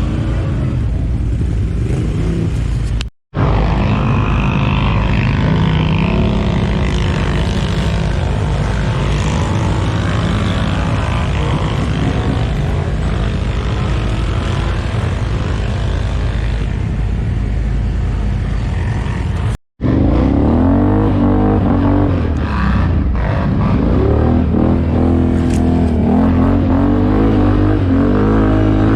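ATV (quad bike) engines running and revving, their pitch rising and falling. The sound cuts out completely twice, briefly, about three seconds in and again near twenty seconds in.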